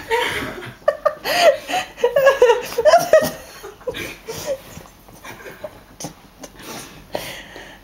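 Young people laughing and giggling, dying down after about three seconds into quieter scattered clicks and rustles.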